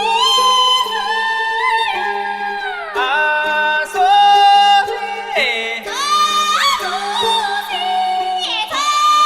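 Yunnan haicai-tune folk singing: high voices holding long notes, with sliding turns up and down between them, over a steady low drone.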